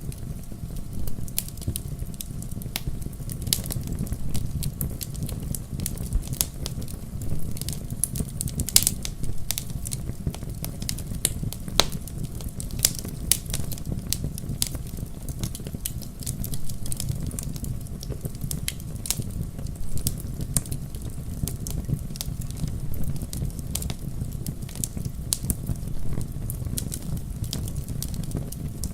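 Wood fire crackling and popping in a fireplace: frequent irregular sharp pops over a steady low rumble of the flames.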